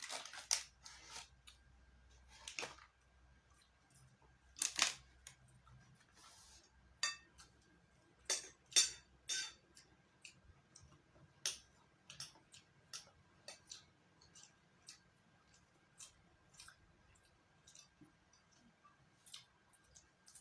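Irregular sharp clicks, taps and short crackly rustles, the sounds of food, containers and utensils being handled at a meal. A few louder crackles come in the first half, then sparser light ticks.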